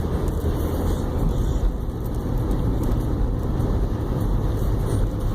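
Steady road and engine noise heard from inside a moving car, a low, even rumble with no distinct events.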